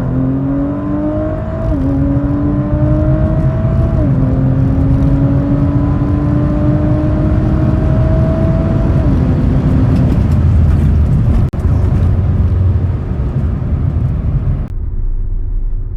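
2019 Audi RS5's 2.9-litre twin-turbo V6, running a Stage 1 ECU and Stage 2 transmission tune, accelerating hard at full throttle through the gears. Engine pitch climbs and then drops at quick upshifts about 2, 4 and 9 seconds in. After the last pull it settles and eases off to a lower rumble near the end.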